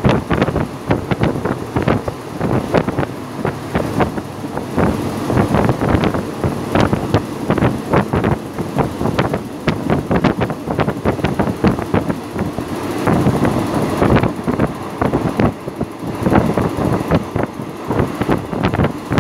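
Passenger train running at speed, heard at an open carriage window: dense, irregular rattling and clatter from the carriage and its wheels on the track, with wind rushing past the microphone.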